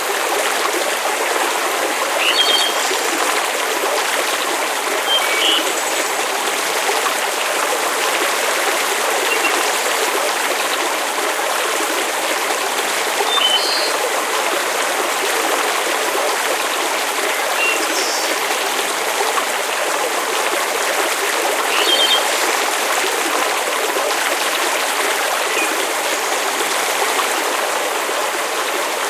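Steady, even wash of falling or flowing water noise, like rain or a running stream, with a few short high-pitched sounds every few seconds.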